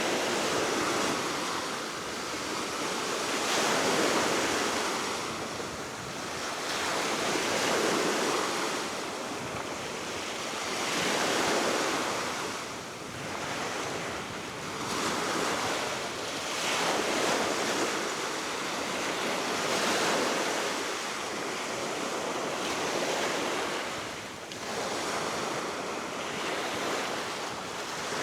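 Baltic Sea waves breaking and washing in, swelling and falling back about every four seconds, under a steady wind.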